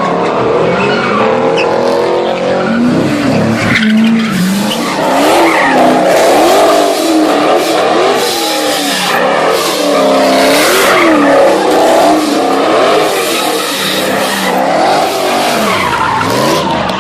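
Muscle car engines revving, their pitch rising and falling over and over, with tyres squealing as they spin and slide in burnouts and drifts.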